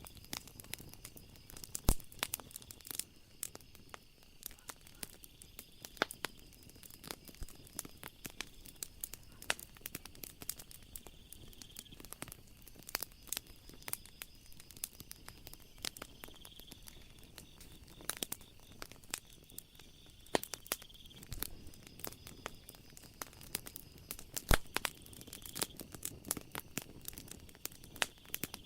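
Wood fire crackling, with irregular sharp pops and snaps, the loudest about two seconds in and near 18 and 24 seconds. Under it runs a faint, steady, high-pitched trill of night insects that swells slightly every few seconds.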